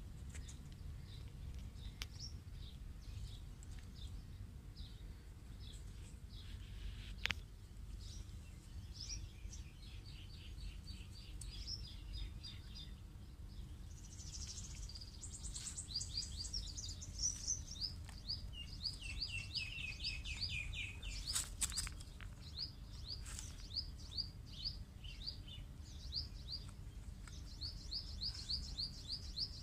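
Small birds chirping in quick runs of short, sweeping notes, sparse at first and nearly continuous from about a third of the way in. A steady low rumble and a few sharp clicks lie under them.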